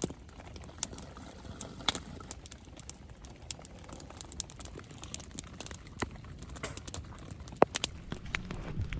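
Rain pattering on a tarp shelter, with a campfire crackling: irregular sharp taps and pops over a low rumble.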